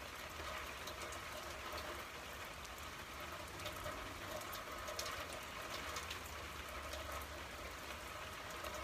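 Steady rain falling, with scattered sharp drip ticks through the steady hiss.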